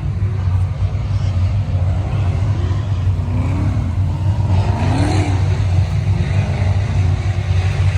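A car running at a steady speed: a continuous low engine drone with road noise. There is a brief rise and fall in pitch about five seconds in.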